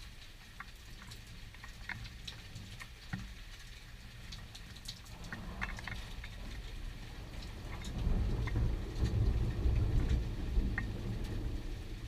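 Rain pattering with scattered drips, then a deep thunder rumble that builds about five seconds in and is loudest over the last few seconds.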